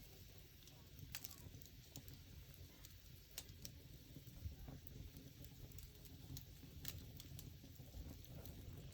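Wood fire burning faintly, with scattered sharp crackles and pops, the loudest about a second, three and a half seconds and seven seconds in, over a faint low rumble.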